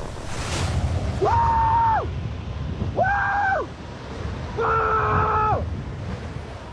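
Motocross bike engine revving three times: each rev climbs fast, holds a steady high pitch, then drops away. Wind rumble on the microphone throughout.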